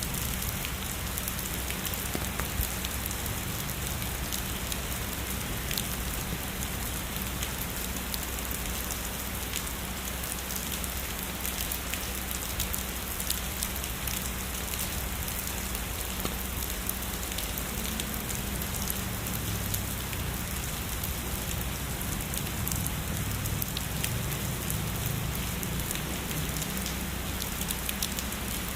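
Heavy rain falling steadily, with many separate drop impacts ticking through the steady hiss of the downpour.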